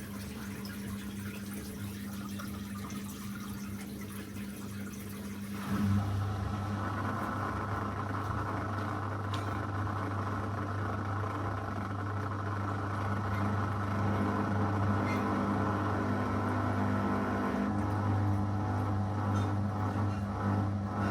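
Zanussi FL984CN front-loading washing machine running mid-wash on a 35° cycle: a steady hum with water noise, then about six seconds in its motor starts up with a louder low hum that continues.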